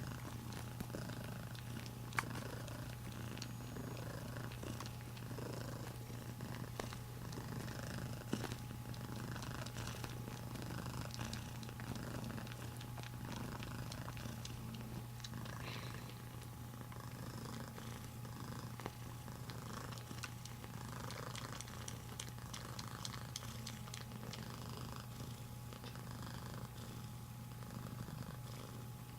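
Domestic cat purring steadily while sucking on a blanket, with faint soft clicks from the sucking scattered over the purr.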